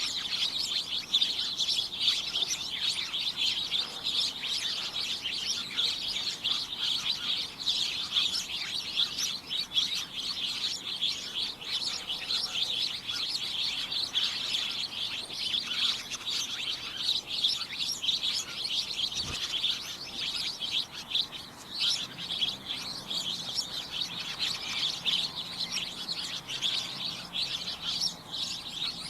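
A flock of small birds chirping and tweeting together in a dense, continuous chorus of short, high chirps.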